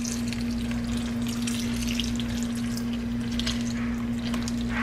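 Milk being poured into a pan of macaroni and cheese: a steady trickling splash with small gurgles. A constant low electrical hum runs underneath.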